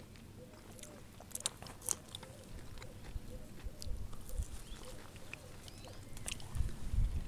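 Someone chewing freshly picked fruit close to the microphone: soft, irregular clicks and crunches.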